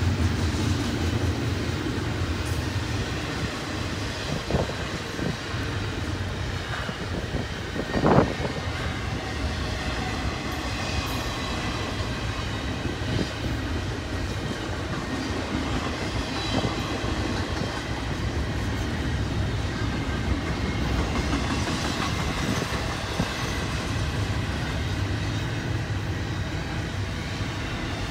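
Double-stack intermodal container cars rolling past on the track: steady noise of steel wheels on rail, with a few sharp clicks, the loudest a bang about eight seconds in.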